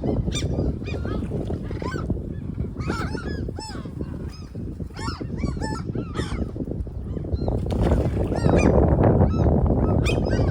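Birds calling over and over in short, arched calls, while strong wind buffets the microphone in a heavy rumble that grows louder near the end.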